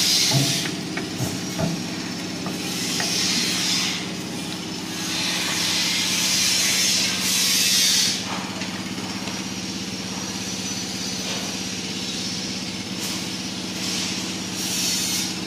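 Daiho DSG-8000 Pro diesel silent generator running at a steady hum. A hiss swells and fades every few seconds over it.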